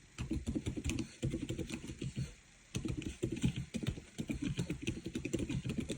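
Fast typing on a Monstargear Ninja 96 PRO custom mechanical keyboard: quick runs of key clacks, broken by a short pause about a second in and a longer one just after two seconds.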